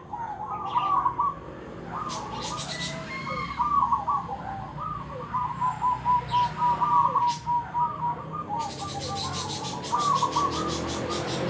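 Zebra dove (perkutut) cooing over and over in quick, lively phrases. About three quarters of the way in, a high, fast pulsing buzz joins it.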